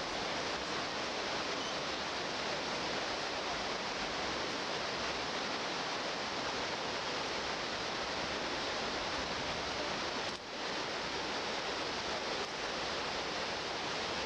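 A steady, even rushing noise with a brief dip about ten seconds in.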